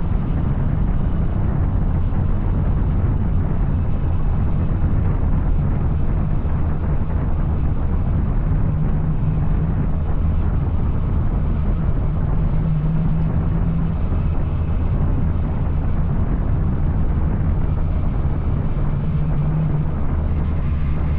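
Yamaha Tracer 900's three-cylinder engine, breathing through an Arrow aftermarket exhaust, running steadily under way, its pitch shifting only slightly.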